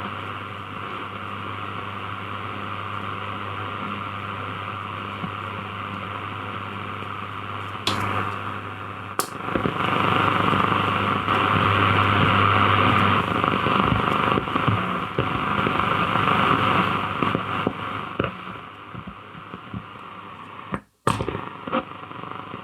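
Grundig Satellit 2100 valve radio receiver giving out steady static and hiss from the tuned band, with no station audible and a low hum underneath. There are single clicks about 8 and 9 seconds in, and the sound cuts out for a moment near the end.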